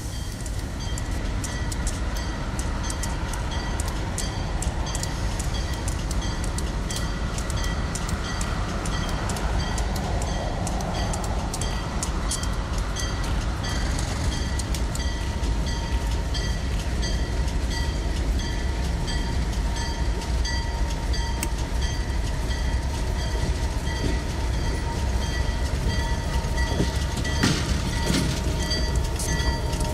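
Train cars rolling by on the track: a steady low rumble with rapid clicks of the wheels over the rail, and a few steady ringing tones above it.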